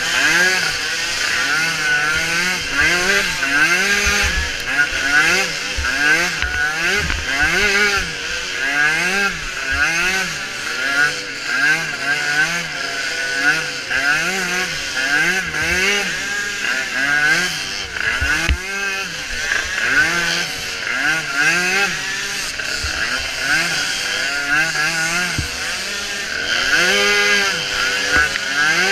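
Small micro ATV engines racing, their pitch rising and falling over and over, about once a second, as the throttle opens and closes.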